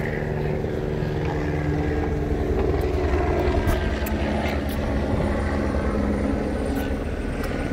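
A steady, low engine drone with a pulsing low end and several held tones.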